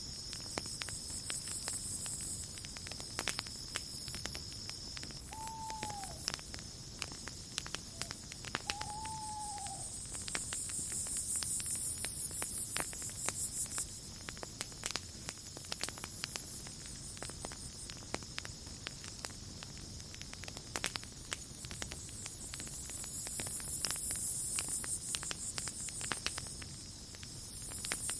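Campfire crackling with frequent sharp pops, over a steady high chirring of crickets that swells and fades. Two short, falling calls sound about six and nine seconds in.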